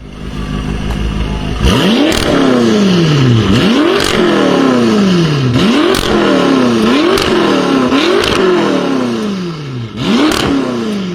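BMW performance car engine revved hard again and again, about seven times: each rev climbs quickly in pitch and falls away slowly. Several of the revs end in a sharp crack from the exhaust.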